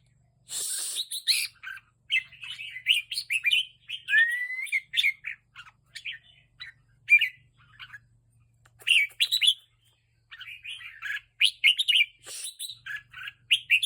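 Red-whiskered bulbul singing in quick bursts of bright chirpy, warbling phrases, with short pauses between them, while worked up into an excited state. There is a brief burst of hiss-like noise about half a second in.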